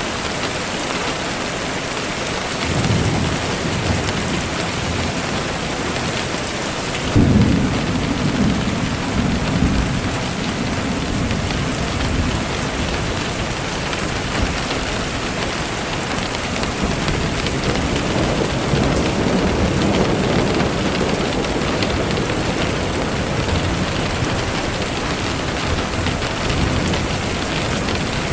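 Steady rain falling, with thunder rolling over it: a low rumble about three seconds in, a sudden louder clap about seven seconds in that rumbles on for a few seconds, and a softer roll around the middle.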